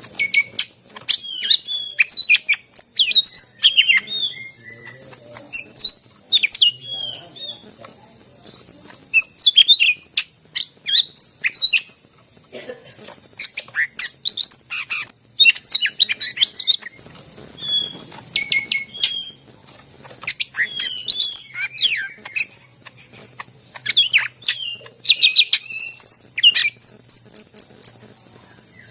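Green leafbird (cucak ijo) singing in quick bouts of rapid, varied chirps and whistled, sliding notes, with short pauses between bouts.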